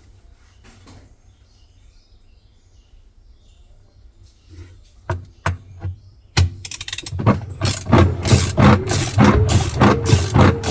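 A washing machine running: a low steady hum, a few clicks, then, about two-thirds of the way in, a loud rhythmic mechanical clatter starts at about three strokes a second.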